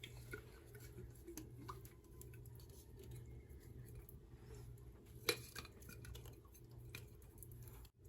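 Faint scraping and light clicks of a spatula working thick Alfredo sauce out of a jar into a bowl, with one sharper click about five seconds in. A low steady hum runs underneath.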